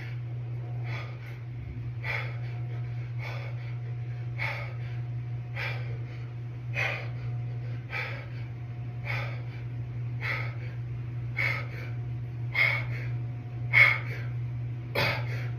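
A man breathing hard with a forceful exhale about every 1.2 seconds, in rhythm with the reps of a hammer-curl set, over a steady low hum.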